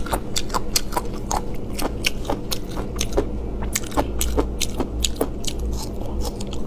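Close mouth sounds of chewing chewy spicy braised offal, wet sticky clicks coming irregularly several times a second over a steady low hum.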